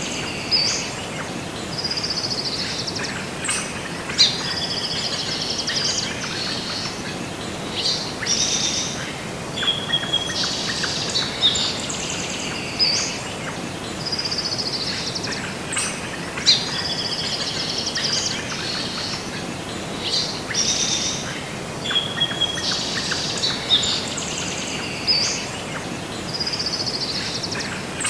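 Several birds chirping and trilling in short, repeated phrases over a steady background hiss.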